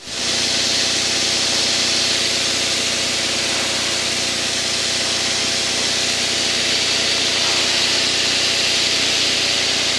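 Steady cockpit noise of an aircraft in formation flight: the even drone of the engine under a loud rush of airflow, unchanging throughout.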